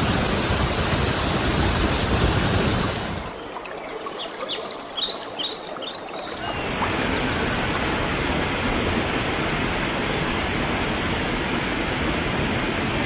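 Waterfall rushing steadily. It drops away for about three seconds partway through, and in that quieter stretch a small bird chirps repeatedly in quick high notes before the rushing water returns.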